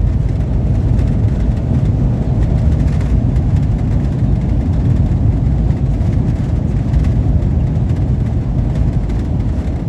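Steady low rumble of an Airbus A321-200 heard from inside the cabin as it rolls along the ground after landing: the engines running and the wheels on the pavement.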